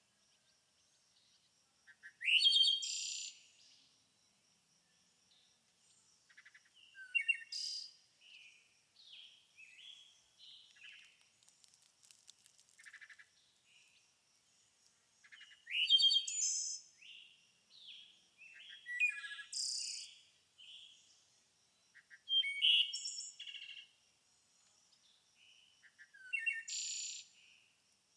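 Songbirds chirping and singing in short phrases of rapid chirps and trills, several bursts a few seconds apart, some down-slurred notes, with quieter chirps between them.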